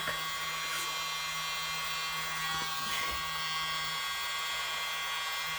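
A steady electric hum with a faint high whine, unchanging in level and pitch.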